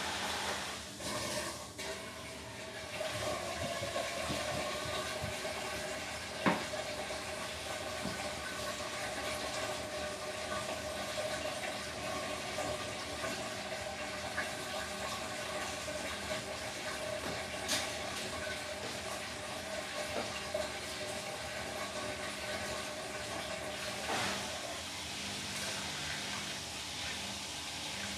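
Beko WTK104121W washing machine taking in water, a steady rush of water with a faint held whine, broken by a couple of brief clicks.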